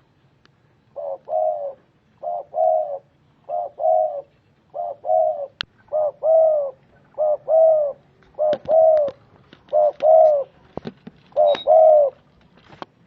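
Spotted dove cooing: about nine short phrases of two or three low, rounded coo notes each, repeated roughly every second and a quarter.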